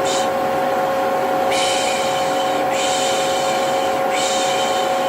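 Vacuum cleaner running with a steady humming drone, overlaid by a long hissing 'pışş' shush that repeats about three times, each lasting roughly a second, with short gaps between.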